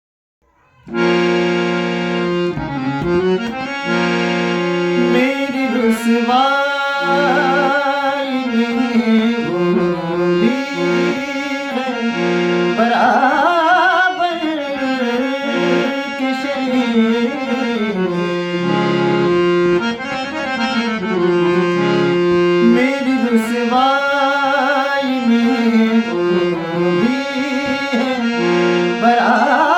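A cover song: held chords on a free-reed keyboard instrument start about a second in. A singing voice with wide vibrato joins around five seconds in.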